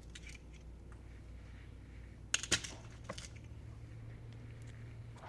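A few light clicks and taps of small hardware being handled, a quick cluster about two and a half seconds in and one more shortly after, over a low steady hum.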